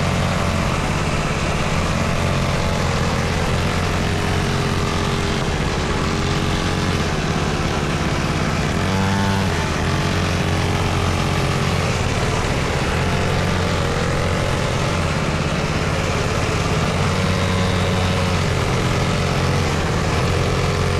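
Small dirt bike engine running steadily while being ridden, its pitch rising and falling as the throttle changes, with one clear rev near the middle.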